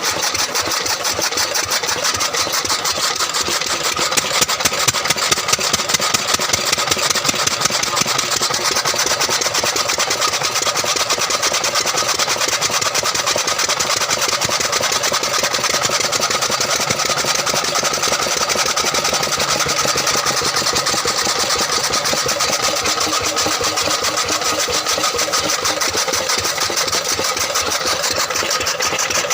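A 10-horsepower engine running steadily with a rapid, even beat, a little louder between about four and eight seconds in.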